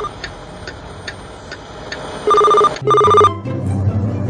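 Telephone ringing in short double rings of a steady electronic tone, with the second pair about two seconds in. A quiet background music bed comes in under the ringing.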